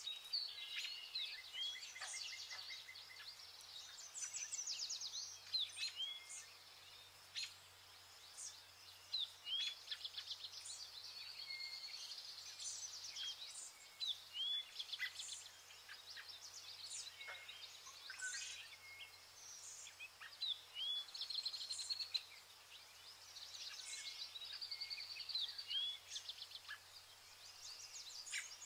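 Birds chirping and singing: many short calls and quick trills, one after another, over a faint steady low hum.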